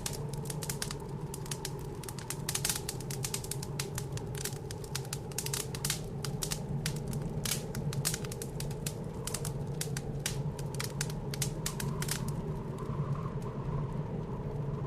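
Wood fire crackling in a fireplace, with many irregular sharp pops and snaps, over a steady low howl of blizzard wind.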